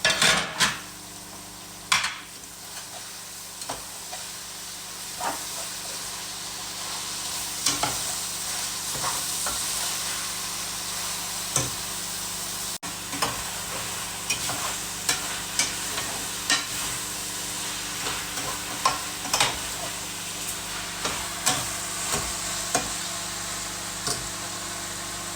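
Lamb liver frying in a pan with a steady sizzle, while a utensil stirs it, tapping and scraping against the pan every second or so.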